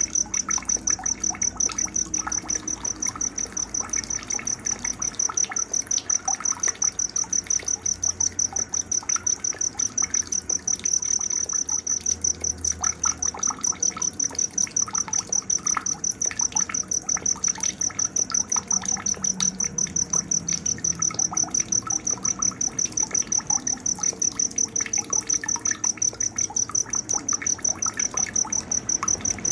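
A cricket chirping steadily in an even, high-pitched pulse, about four chirps a second, with scattered bird chirps and calls beneath it in a night-time nature soundscape.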